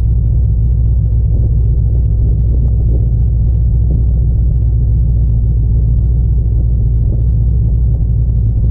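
Car engine idling, heard from inside the car as a steady low rumble.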